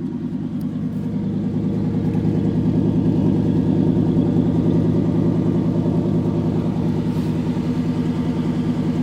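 1988 Chevrolet pickup's V8 idling through side-pipe exhausts, a steady low pulsing that gets a little louder over the first few seconds and then holds.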